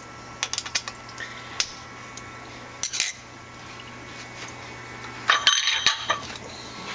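Metal clicks and clinks as a machined part is unclamped and lifted out of its holding jig, scattered at first, with a denser cluster of clinks a little after five seconds in, over a low steady hum.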